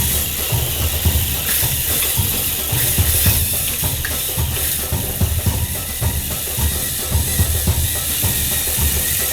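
Battery-powered TrackMaster toy train motors whirring with their plastic gears grinding under load, over dance music with a steady drum beat.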